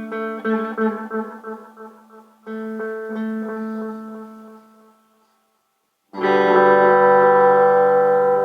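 Clean electric guitar played through an analog delay pedal. A held note echoes at about four repeats a second and dies away, a second note echoes out into a short silence, and then a loud ringing chord comes in about six seconds in.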